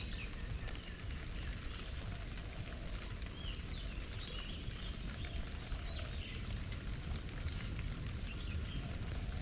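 Small birds chirping in short calls, with light splashing of water in a bird bath, over a steady low rumble.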